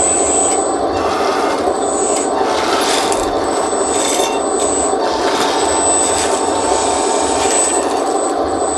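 Electric hydraulic pump of a 1:14-scale RC skid steer loader running steadily, with a thin high-pitched whine that switches on and off several times as the model is driven and worked.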